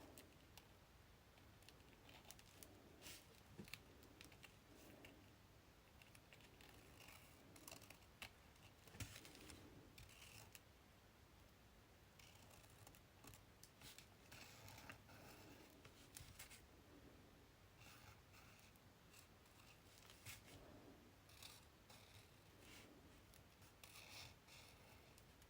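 Faint, irregular short scratching and snipping sounds of hand tools working paper in a small room.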